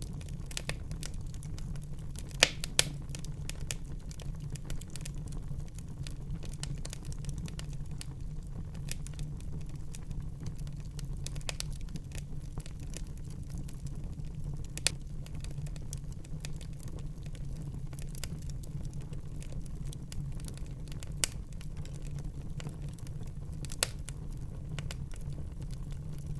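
Wood fire burning in a fireplace: a steady low rumble of the flames with scattered crackles and a few sharp pops from the burning logs.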